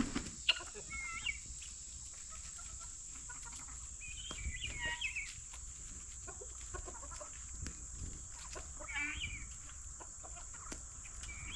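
Backyard chickens and guinea fowl clucking and calling in a few short bursts as they go after thrown grapes.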